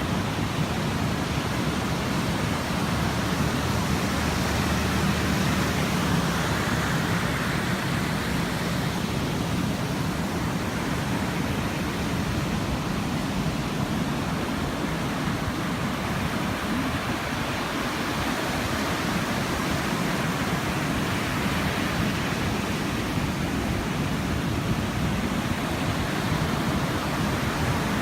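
Steady rushing sea surf, an even wash of noise with no distinct breaks or strikes.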